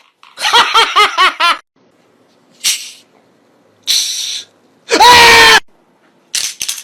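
High-pitched laughing in quick, bouncing notes for about a second, then a few short breathy bursts and a loud shrill cry that falls in pitch, with more short breathy bursts near the end.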